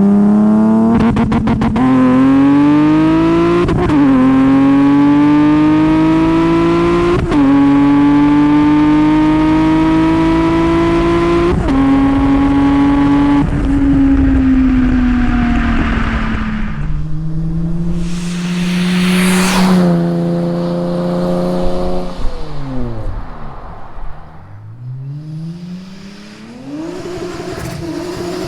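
Supercharged Nissan 350Z's 3.5-litre V6 through an ISR single-exit exhaust, accelerating hard through the gears. The engine note climbs steadily and drops sharply at each shift, three times. It then lets off with the pitch sliding down, followed by a rushing pass and an engine note that dips and rises again.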